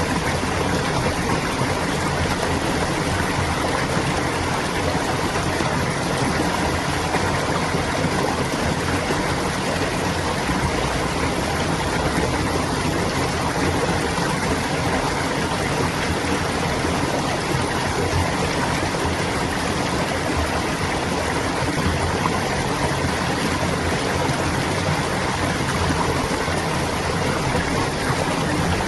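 Clear flowing water babbling steadily, like a small stream running over stones.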